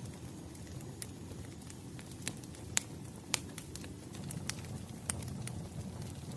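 Wood fire burning in a fireplace: a steady low rumble of flames with irregular sharp crackles and pops, the strongest about three seconds in.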